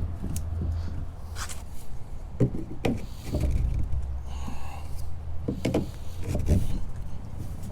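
PVC pipe pieces knocking and rubbing as they are pushed into their fittings: several sharp knocks, with a short scraping squeak about four seconds in, over a steady low hum.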